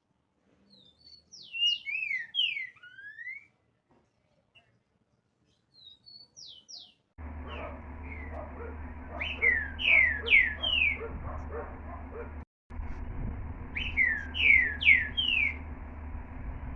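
Green-winged saltator (trinca-ferro) singing: repeated short phrases of loud, slurred whistled notes, four phrases in all. About seven seconds in, a steady low hum starts underneath the song.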